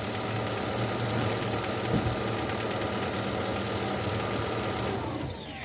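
Opel Vectra engine idling steadily, then switched off near the end, its pitch falling as it winds down.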